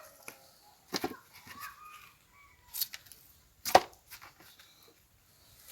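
Pieces of dry firewood knocking against each other as they are laid on the bonfire stack: three sharp wooden knocks, about a second in, near three seconds and near four seconds, the last the loudest.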